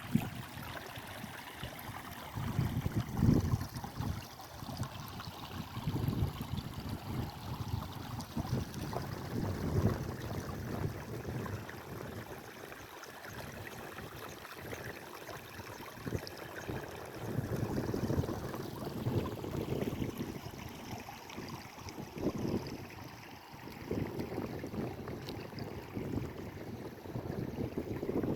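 Wind buffeting the microphone in irregular gusts, over a steady rush of running water in the paddy fields.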